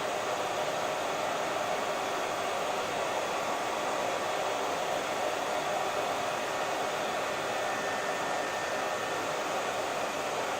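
Hair dryer running steadily: a constant, even rush of blown air and motor noise with no change in speed.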